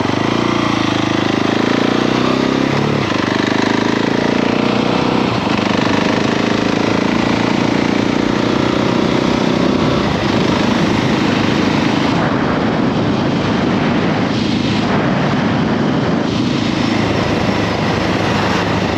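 KTM 690 SMC-R's single-cylinder engine pulling away from idle and accelerating, with a gear change about three seconds in, then running steadily at road speed under wind noise.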